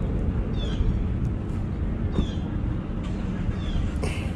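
A bird calling: short, high, downward-sliding chirps repeating about every second and a half, over a steady low rumble. A brief sharp click near the end.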